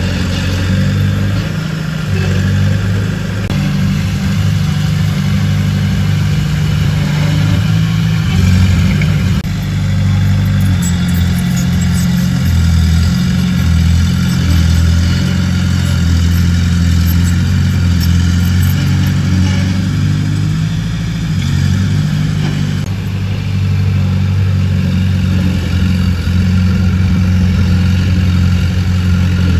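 Diesel engine of heavy earthmoving machinery running steadily, its pitch stepping up and down as the load changes, with faint light ticking in the middle.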